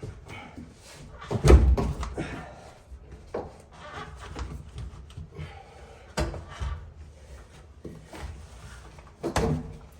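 A few knocks and thumps with quieter rustling between, the loudest about one and a half seconds in and others near six and nine seconds in.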